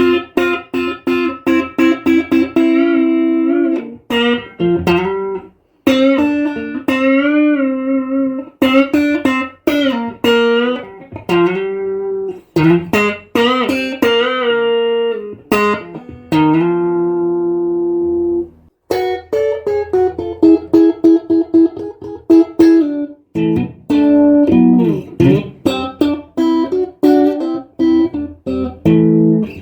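Strat-style electric guitar played solo: picked melodic lines with string bends and vibrato, struck chords and long held notes, with a brief pause about eighteen seconds in.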